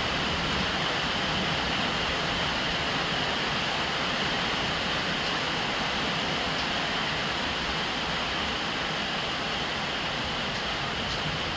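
Steady rain falling on a roof: an even, unbroken hiss with a couple of faint drop ticks.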